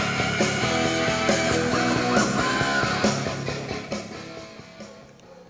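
Rock music with guitar playing in stereo through a pair of ambient-sound speakers, fading out over the last couple of seconds.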